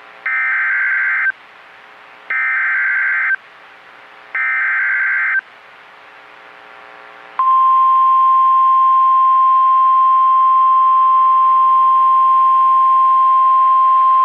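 NOAA Weather Radio emergency alert: three one-second bursts of SAME digital header tones, about two seconds apart. About seven seconds in, the steady 1050 Hz warning alarm tone begins and holds. Together they are the coded header and attention tone that announce a severe thunderstorm warning broadcast.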